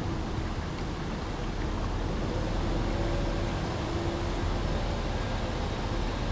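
Small brook flowing, a steady even rush of water with a low rumble underneath.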